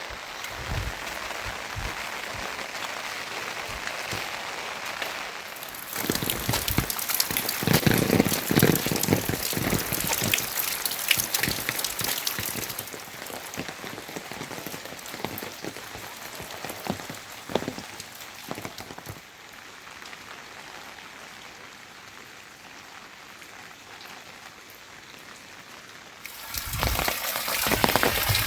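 Rain falling, individual drops striking a surface through a steady hiss. It gets louder about six seconds in, eases off after about twenty seconds, and picks up again near the end.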